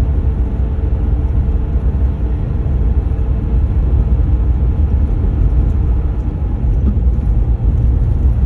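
Steady low rumble of road, tyre and engine noise heard from inside the cab of a 2014 Ram 1500 EcoDiesel pickup cruising at highway speed, its 3.0-litre V6 turbodiesel under steady load.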